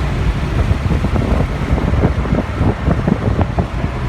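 Nissan 300ZX twin turbo's 3.0-litre twin-turbo V6 running while driving, a steady low rumble mixed with road and wind noise, heard from inside the cabin, with a scatter of small knocks or rattles in the middle. The car is not making boost, which the occupants suspect is a vacuum leak.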